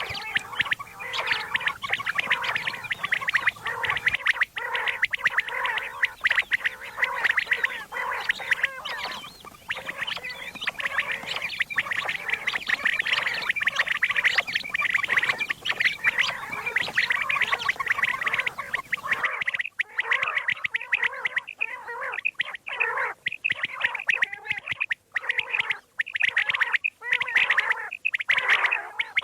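Common quail calling: a dense, rapid chatter of many overlapping short calls, used as a lure for quail hunting.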